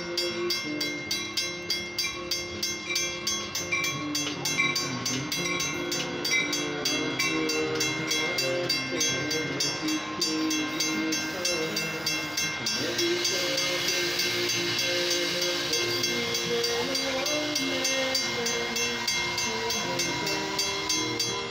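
Metra commuter train rolling through a grade crossing while the crossing warning bell rings in quick, regular strikes. About halfway through, the wheel and rail noise of the passing cars grows into a louder hiss.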